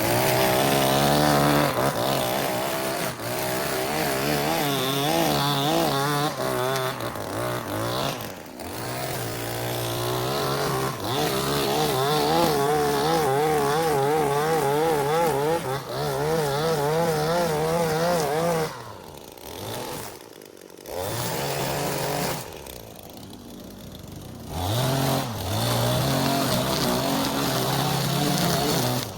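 Small petrol engine of lawn-care equipment running, its pitch wavering up and down; it drops quieter twice in the second half before picking up again.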